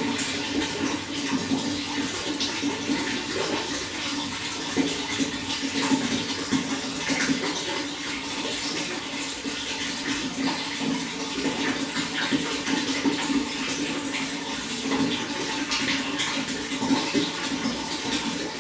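Running water flowing steadily, a continuous rush with many small irregular splashes.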